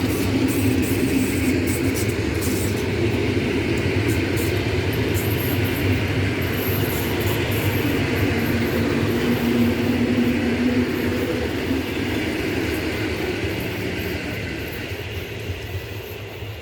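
Two coupled EN71 electric multiple units running past and pulling away, a steady rail running noise that grows fainter over the last few seconds as the train recedes.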